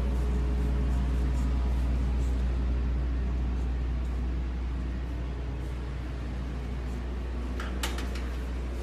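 Truck engine running with a steady low rumble. A few sharp clicks come near the end.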